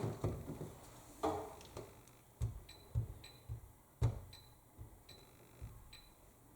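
Control panel of an AEG 7000 Series washing machine being set for a cycle: several clicks of buttons or the programme dial being pressed and turned, with about five short high beeps from the panel as the options are chosen.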